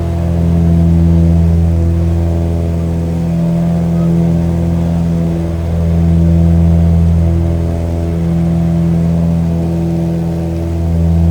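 Steady aircraft engine drone, a low hum that swells and eases in loudness every few seconds.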